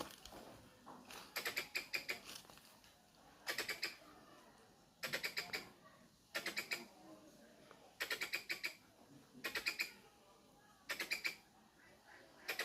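A squirrel calling: about eight short bursts of rapid, sharp chips, one burst roughly every second and a half.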